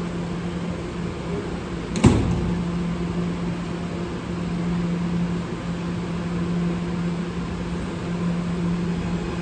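Steady machinery hum in a subway station, like an air-conditioning unit, with one sharp knock about two seconds in.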